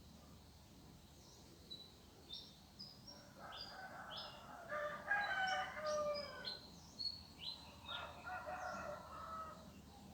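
A rooster crowing twice, two long crows in the middle of the stretch, while small birds give short, high chirps throughout.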